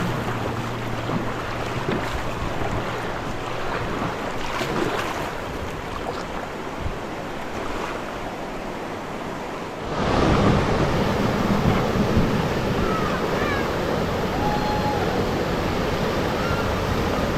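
Rushing river water through rapids, with wind buffeting the action-camera microphone; about ten seconds in, the water noise gets suddenly louder.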